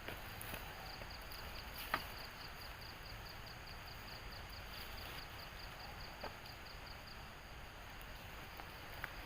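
Cricket chirping at a steady high pitch, about four pulses a second, stopping near the end, with a few faint clicks.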